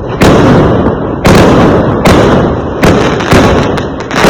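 Fireworks going off: about five loud bangs in quick succession, each dying away before the next.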